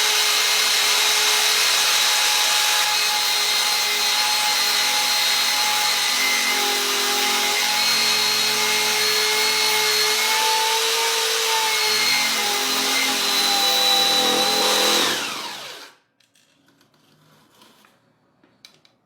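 Power tool spinning a steel wire brush at high speed, grinding steadily with a whine of several steady tones over a loud rasping hiss, as in friction welding. About fifteen seconds in it is switched off and winds down quickly, falling in pitch, and a few faint clicks follow.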